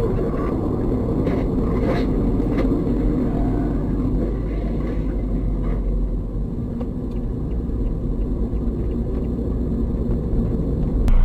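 A car driving along, heard as a steady low rumble of engine and road noise, with a few faint knocks in the first few seconds.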